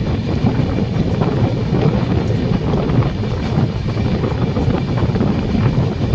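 Steady, loud rumble of a moving train.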